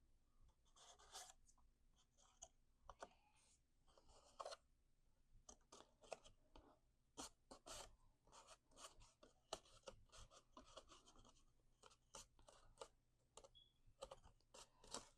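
Faint rustling and scattered light ticks and taps of cardstock being handled. There are a few longer rustles near the start.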